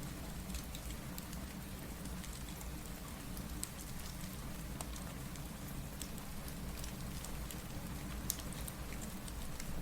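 Steady rain with scattered sharp crackles of a wood fire, one louder pop about eight seconds in.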